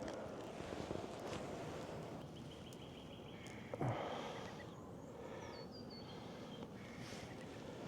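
Birds calling faintly over a steady background hiss: a quick run of short repeated notes a little over two seconds in and a stepped, falling call near the middle. A single dull thump about four seconds in is the loudest sound.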